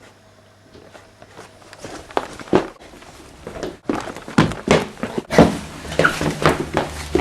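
Irregular knocks and thuds, faint at first and growing louder and more frequent, with a low hum building up under them near the end.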